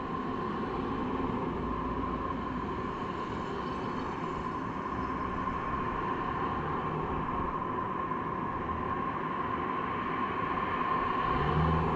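Steady rolling rumble of a vehicle in motion, with a constant steady tone running through it and a low swell near the end.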